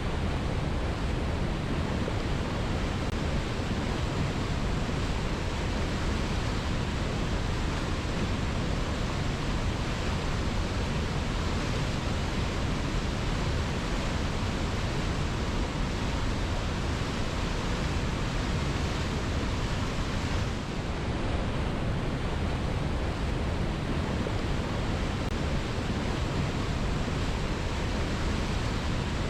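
Waterfall crashing into a rocky pool: a steady, dense rush of water, heaviest in the low end.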